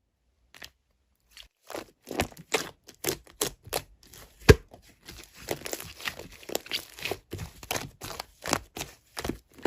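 Crinkling and tearing, as of some material being crumpled or pulled apart, in quick irregular strokes starting about a second and a half in, with one sharp, louder crack about four and a half seconds in.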